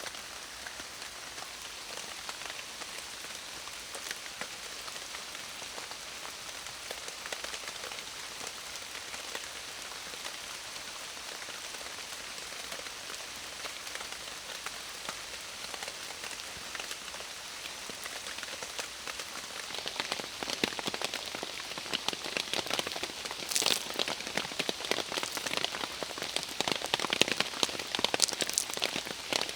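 Heavy rain falling in a steady hiss. About two-thirds of the way in it grows louder, with many sharp, close drop hits on top.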